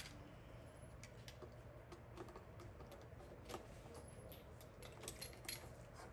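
Near silence with faint, irregular small clicks, a few more of them near the end.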